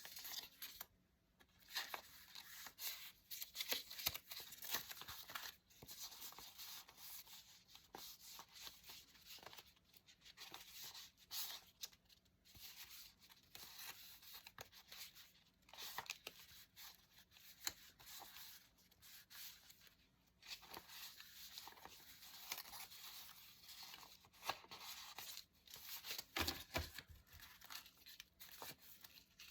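Paper being handled and torn close to the microphone: quiet, scratchy rustling and ripping in many short strokes, with a somewhat louder low rustle about 27 seconds in.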